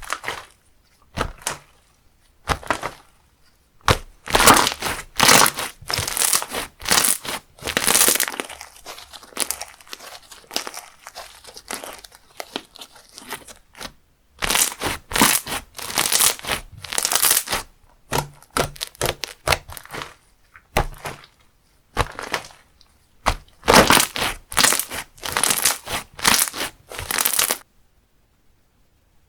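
Slime being squished, pressed and poked by hand, giving runs of sharp crackles and pops in clusters with short pauses. The sound stops about two seconds before the end.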